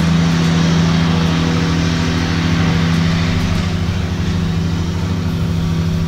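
A steady, unchanging drone of a running engine or motor, holding one pitch.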